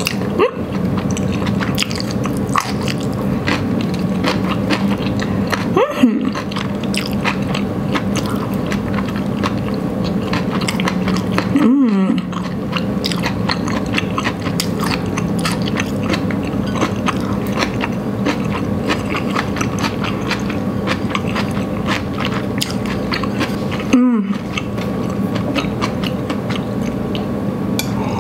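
A person chewing a mouthful of udon noodles and vegetables: steady wet chewing with many small mouth clicks and smacks, over a steady low hum, with a few brief louder moments.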